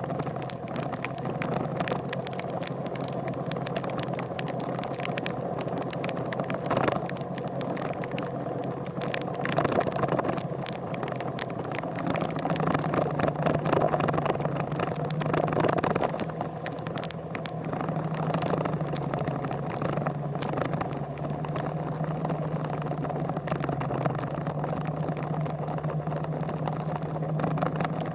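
Motorcycle engine running at a steady pitch that steps up slightly about twelve seconds in, over a steady rushing noise, with many short rattling clicks.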